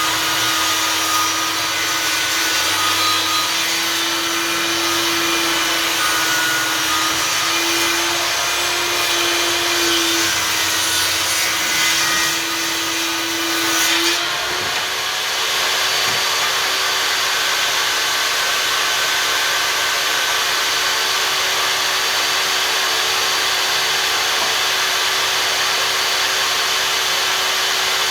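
Einhell table saw running steadily while cutting a wooden board. About halfway through, its whine steps up slightly in pitch and the cutting hiss drops, as the blade comes out of the cut and runs free.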